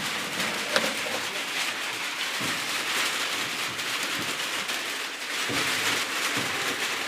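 Light rain falling, a steady even hiss of drizzle.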